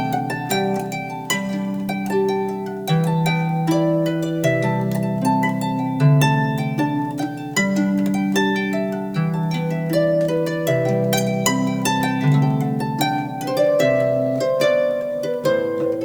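Harp music: a steady run of plucked notes ringing over long-held low notes.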